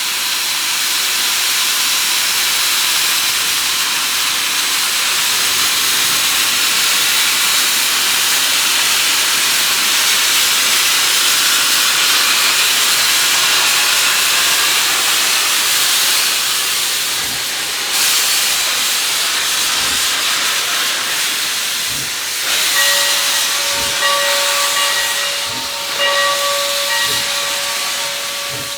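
Replica 4-4-0 steam locomotive venting steam with a loud, steady hiss. About three quarters of the way in, its bell starts ringing, struck about once a second.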